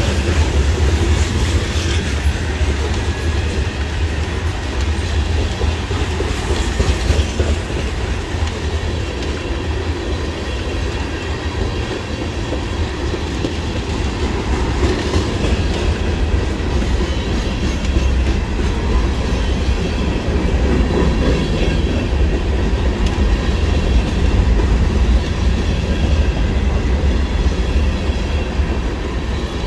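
Freight train cars rolling past close by: a steady heavy rumble with the clickety-clack of steel wheels over the rail joints.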